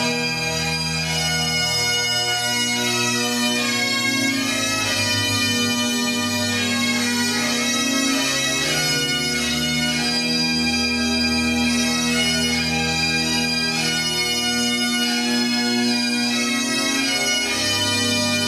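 Great Highland bagpipes playing a tune, the melody changing note by note over steady, unbroken drones.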